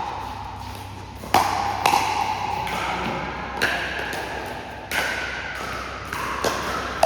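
Pickleball rally: about five sharp pops at irregular spacing as paddles strike the plastic ball, with the ball bouncing on the court.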